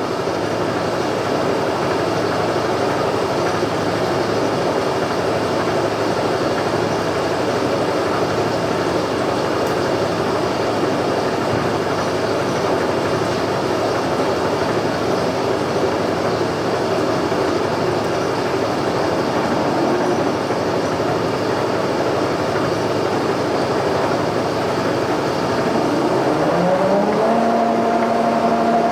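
Portable line-boring bar turning and cutting as it back-bores a worn pivot hole in a steel suspension frame, a steady mechanical running noise. Near the end a motor's pitch rises and then holds at the higher speed.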